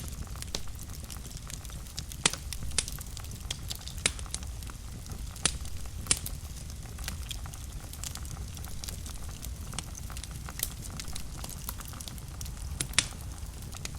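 Fire burning in a fireplace: a steady low rumble of flames with constant small crackles and a handful of sharp, louder pops, the loudest about two seconds in and near the end.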